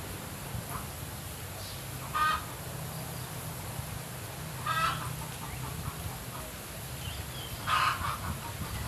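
A bird calling three times, short clucking calls with a few seconds between them, over a steady low background hum.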